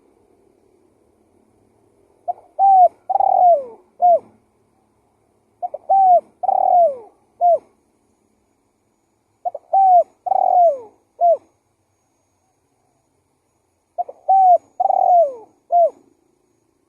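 Spotted dove (tekukur) singing its lure call: four cooing phrases, about four seconds apart. Each phrase is a short pickup note, two longer downward-sliding coos and a clipped final coo.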